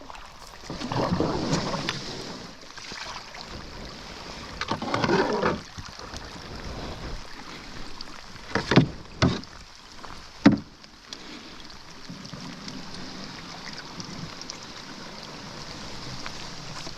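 Canoe paddle strokes splashing through the water, two strong ones in the first six seconds, over a steady hiss of rain. A few sharp knocks come around the middle.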